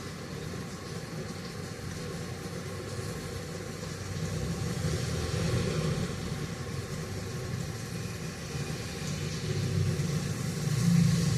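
Steady rain with a low rumble under it that swells about halfway through and again near the end.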